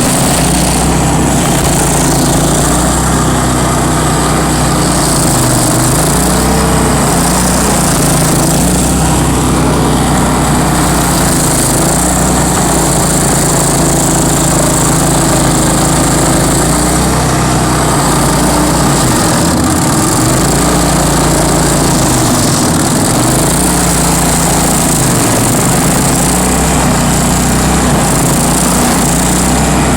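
Bandit ZT1844 stump grinder's engine running loud and steady, its pitch sagging briefly every so often.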